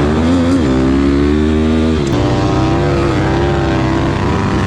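Pit bike engine revving hard under throttle, its pitch rising and falling, with a sharp drop in pitch about two seconds in.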